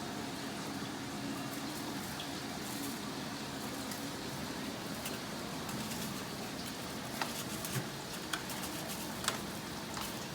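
Seasoning being shaken and sprinkled onto a raw turkey: a steady, faint hiss, with a few light clicks in the second half.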